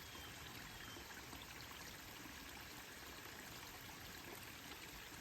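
Waterfall running steadily, an even rush of falling water.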